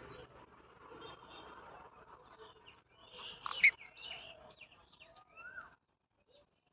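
Parrot giving a few short chirps and calls, the loudest a sharp call about three and a half seconds in, with a short rising whistle near five seconds; the last second is nearly silent.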